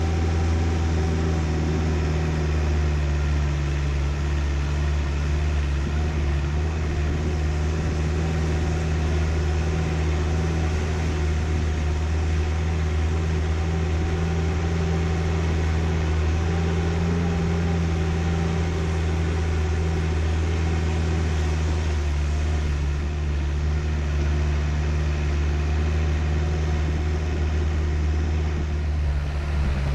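4WD vehicle's engine running steadily as it drives along a rough dirt track: a steady low drone that drops slightly in pitch near the end.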